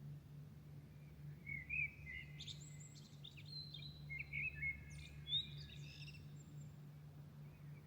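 A songbird singing a varied phrase of quick high whistles and trills, starting about a second and a half in and running to past the middle, over a steady low hum.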